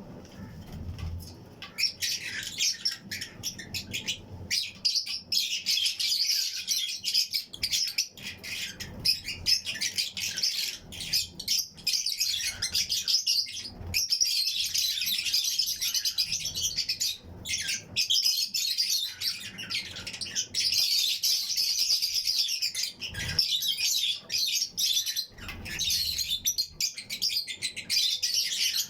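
A colony of Fischer's and lutino lovebirds chirping and chattering, many birds calling at once in a dense, unbroken stream of rapid high chirps. A few soft low thumps stand out here and there.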